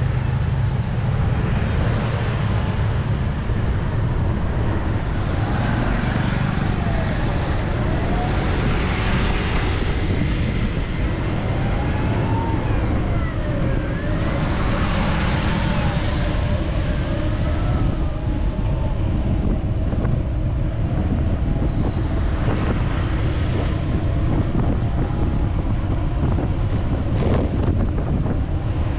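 Steady road traffic noise with wind buffeting the microphone. Through the middle a faint tone glides up and down several times, and there is a single sharp click near the end.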